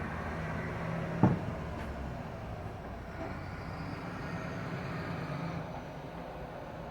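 Steady low background rumble with a faint hum, and one short knock about a second in.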